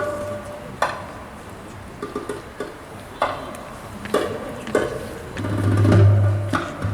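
Live band playing a sparse passage: scattered sharp percussion strikes over faint instrument tones, with a deep low note swelling about five and a half seconds in.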